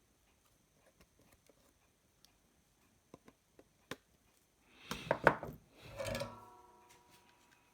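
Repair-bench tools handled on a car stereo circuit board during desoldering: scattered small clicks and taps, a burst of knocks about five seconds in, then a clatter with a brief ringing that fades out.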